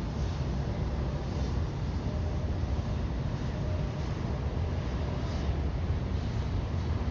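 Steady low rumble of outdoor ambience, with a few faint, brief hissing swells.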